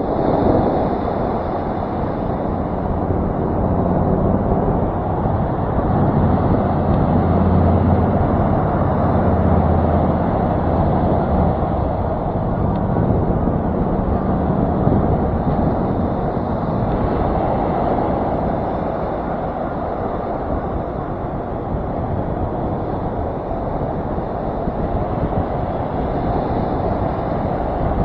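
Wind rushing over an action camera's microphone in flight, a loud, steady rumble with no breaks.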